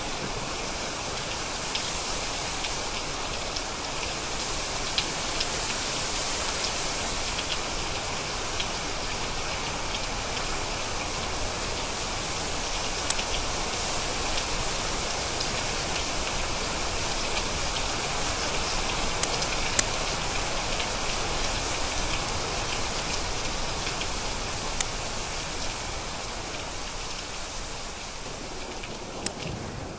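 Steady rain falling on a surface, with a few sharp single drop impacts standing out now and then. It eases off slightly over the last few seconds.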